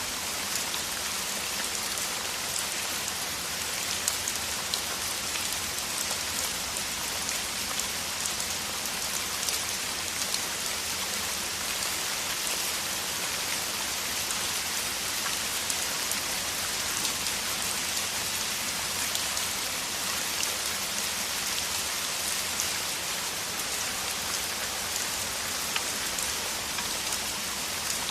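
Heavy rain falling steadily: a dense, even hiss made of countless fine drop hits.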